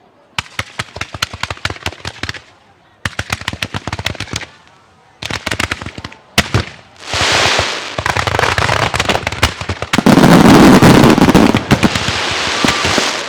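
Fireworks going off: three short volleys of rapid crackling pops, then from about seven seconds a continuous dense barrage of bursts, loudest about ten seconds in.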